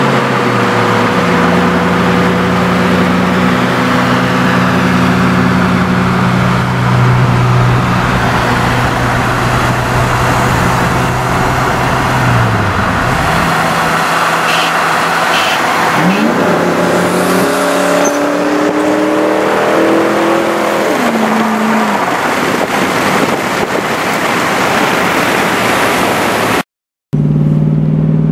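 Car engine and road noise heard from inside a moving car: the engine holds a steady note at cruise, dips in pitch about halfway, then climbs steadily under hard acceleration for about five seconds before falling away. The sound cuts out briefly near the end and comes back at a steady cruise.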